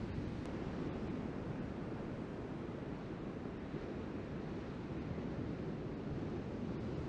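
Steady wash of ocean surf mixed with low wind rumble on the microphone.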